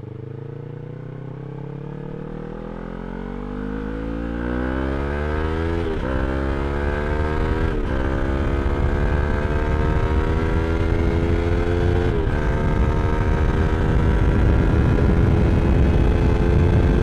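Yamaha R3's 321 cc parallel-twin engine through an Akrapovič slip-on exhaust, accelerating hard: the exhaust note climbs steadily in pitch, broken by three quick upshifts about six, eight and twelve seconds in. Wind rush grows louder with the speed.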